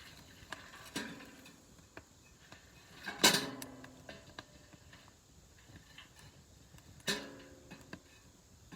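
Three knocks of firewood against the stainless-steel body of a Solo Stove Ranger fire pit, each with a short metallic ring. They come about a second in, near three seconds (the loudest) and near seven seconds, with faint small ticks and crackles between.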